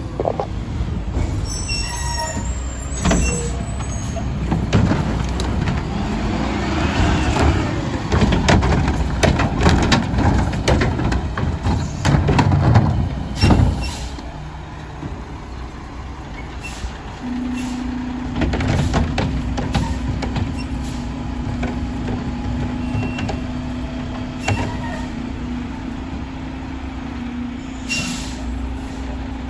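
Mack LR rear-loader garbage truck with a McNeilus Meridian body working a collection stop: the diesel engine runs while a string of clanks and bangs comes from trash being loaded, with air-brake hiss. Past the halfway point a steady hum sets in and holds under the engine.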